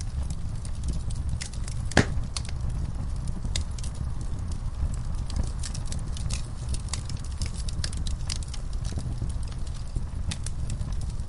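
Wood fire burning in a fireplace: frequent small crackles and pops over a steady low rumble of the flames, with one louder pop about two seconds in.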